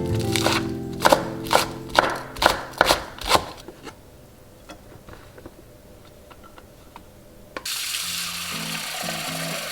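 About seven sharp knocks, roughly two a second, during the first three seconds of kitchen preparation. A steady hiss starts suddenly near the end, under soft background music.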